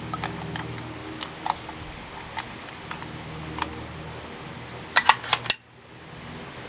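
Small metallic clicks and rattles of a bolt-action 6.5 Creedmoor rifle being loaded and readied, with a quick run of sharper clicks about five seconds in as the bolt is worked, then the sound drops away suddenly. A low steady hum runs underneath.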